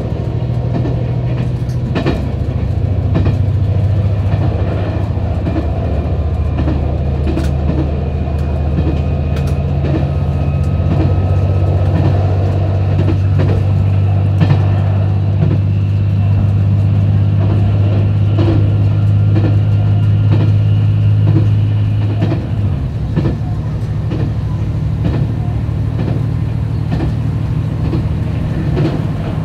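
Train in motion heard from inside the carriage: a steady low running drone with wheels clicking over rail joints. The drone eases off a little about three quarters of the way through.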